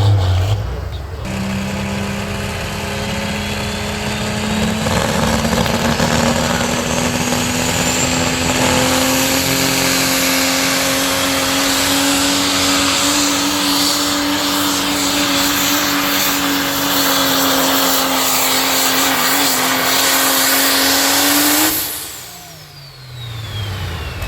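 Pro Stock 4x4 diesel pulling truck running at full throttle under load, its engine note holding steady and climbing slightly for about twenty seconds, with a high whistle rising over the first several seconds. Near the end the engine is suddenly cut back and its note winds down.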